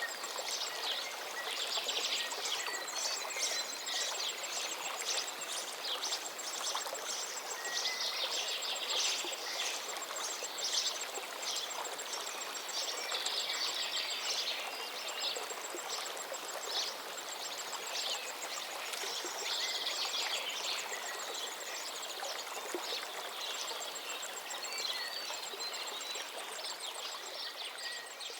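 River water flowing in a steady rush, with songbirds singing in repeated bursts of bright chirps over it.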